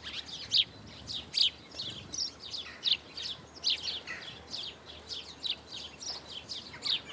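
Small songbirds chirping: a steady stream of short, high chirps, several a second, overlapping at times.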